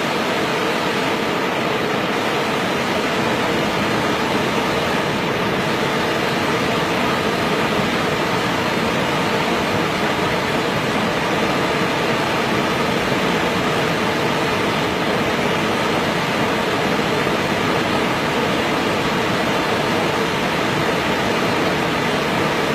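Waterfall: falling water rushing in a loud, unbroken hiss that never changes.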